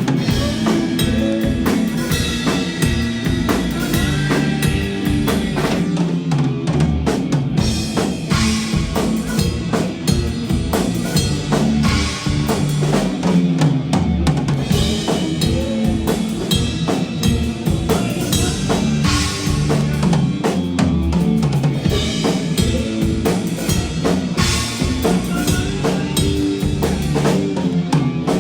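Live band playing loud music, with a drum kit's bass drum and snare keeping a steady beat.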